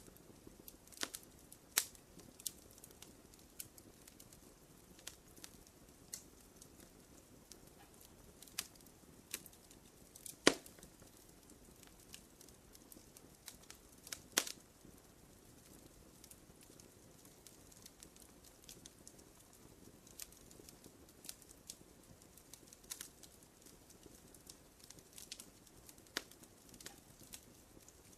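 Wood campfire crackling gently: scattered sharp pops and snaps over a faint low rush of flame, with two louder pops about ten and fourteen seconds in.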